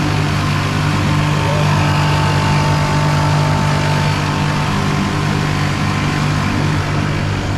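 Boat motor running at a steady speed, a constant low hum under a steady rushing hiss.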